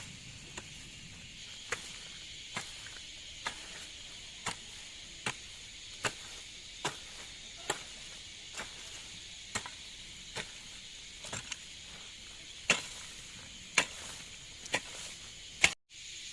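Rhythmic chopping strokes of a hand tool into ground or vegetation, about one a second, with the hardest blows a little after the middle. A steady insect trill runs behind.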